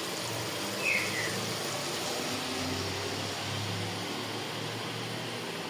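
Steady hiss of chicken masala with tomatoes frying in a large aluminium pot on a gas stove, with a brief high squeak about a second in.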